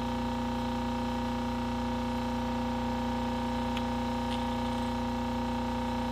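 A steady electrical hum that holds one pitch throughout, with a couple of faint light ticks about four seconds in.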